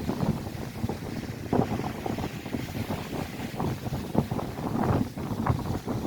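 Gusty wind buffeting the microphone with an irregular low rumble and flutter, over the wash of Lake Erie waves breaking on the shore.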